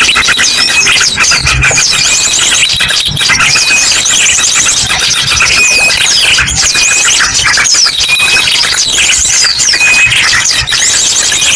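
Bird-lure recording: a dense, noisy chorus of many small birds chirping and chattering, mixed with the fast song bursts of ashy drongos. Rapid high trills and short clear whistles come again and again over the din.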